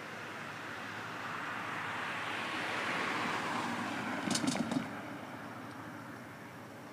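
A car passing on the road, its tyre and engine noise swelling to a peak and fading away, with a few brief sharp sounds as it goes by.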